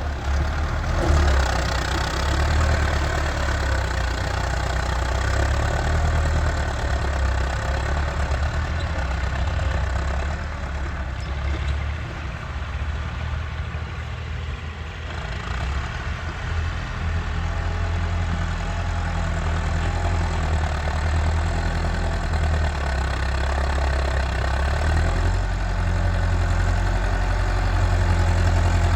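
Massey Ferguson 385 tractor's diesel engine running steadily with a low hum. It eases off a little about halfway through, then picks back up.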